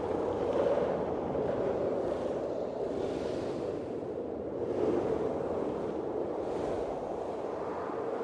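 Blizzard wind blowing in gusts: a steady rushing that swells and eases every second or two, with hissing surges on top.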